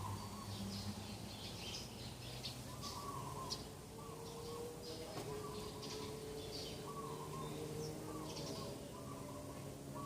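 Several wild birds chirping and singing: many short high chirps, and a short warbled call repeated about once a second. A faint steady low hum runs underneath.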